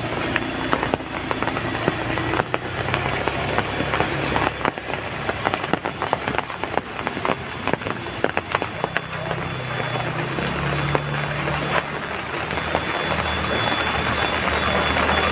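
Heavy rain falling steadily, with many individual drops striking close by, over a low steady hum that grows slightly louder toward the end.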